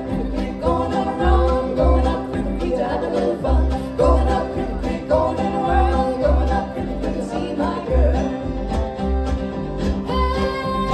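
Live bluegrass band playing an up-tempo tune, with banjo and guitar picking over a steady bass beat.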